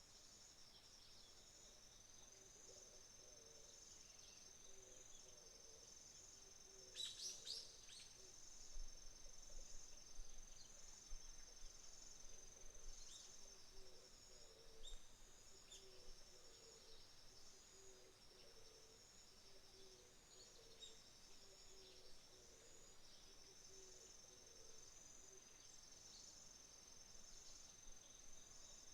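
Autumn crickets chirping steadily in high-pitched pulsing trills, with a few sharp bird calls, the loudest about seven seconds in, and smaller chirps later. A faint low sound repeats in the background.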